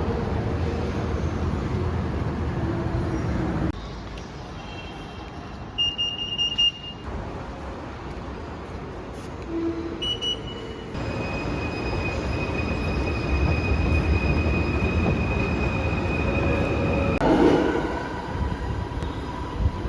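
Inside a rail transit train: the carriage's steady running rumble, with a few short high electronic tones in a quieter middle stretch. The rumble then grows louder, with a steady high whine, about halfway through.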